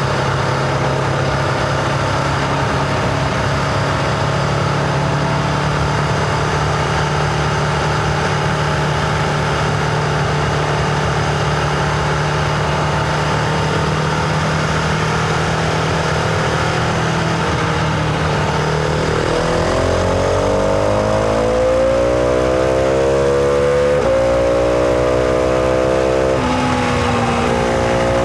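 Husqvarna Vitpilen 701's single-cylinder engine, heard from the rider's seat over wind and road noise. It holds steady cruising revs, then about two-thirds of the way in it accelerates with rising revs, dropping back twice near the end as it shifts up.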